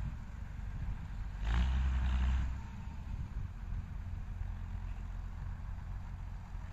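Fendt tractor engine running steadily while pulling a plough, growing louder for about a second starting a second and a half in.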